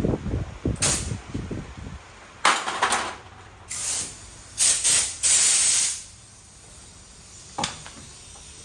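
Several loud bursts of hissing spray, the longest about a second and a half, after a couple of seconds of low rumbling knocks.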